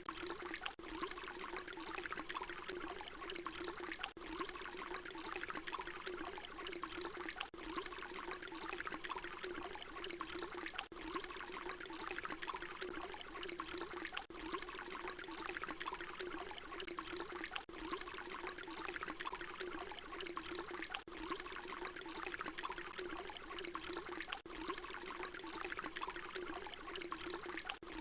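Water pouring steadily in a continuous stream. A brief dip in level comes about every three and a half seconds, where the short recording loops back on itself.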